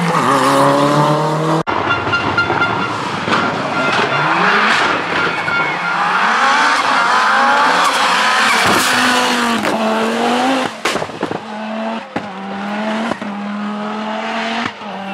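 Group B rally car engine at full throttle on a stage, its pitch climbing and dropping again and again through the gear changes, with a few sharp cracks in the middle. The sound cuts abruptly to another car about a second and a half in.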